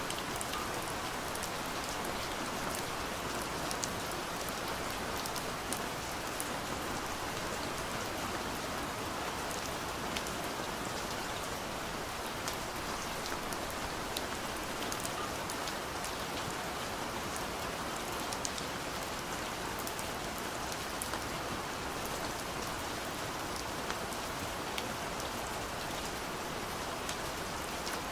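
Gentle rain falling steadily against a window pane, a continuous hiss with many small drop ticks.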